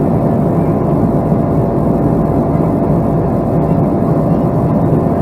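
Boeing 757 aircraft noise: a steady, loud rumble with a thin constant tone running through it.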